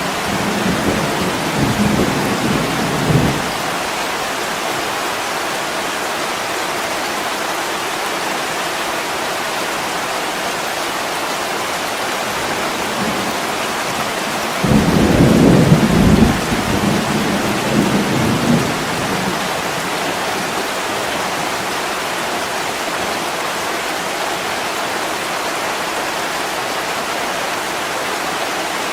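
Steady heavy rain hissing, with two low rolls of thunder: a shorter one at the start and a louder one about halfway through that rumbles for several seconds.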